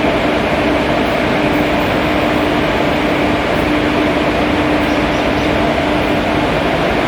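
Passenger train running steadily, heard from inside a coach: a loud, even rumble and rush with a constant hum underneath.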